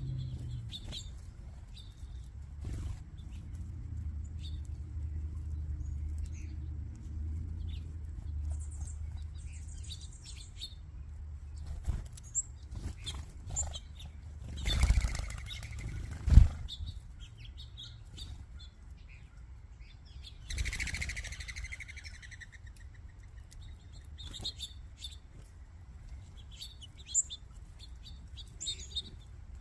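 A mixed flock of small seed-eating birds chirping at a backyard feeding spot, with short scattered calls throughout. Twice, near the middle, a flurry of wings whooshes as birds take off together, and a single sharp thump is the loudest sound.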